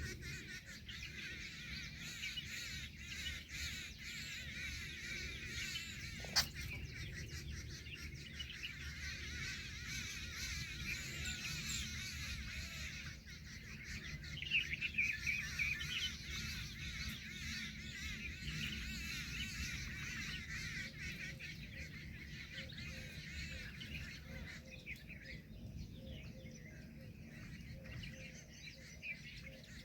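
Birds calling steadily, with a louder cluster of calls about fifteen seconds in and a single sharp click about six seconds in.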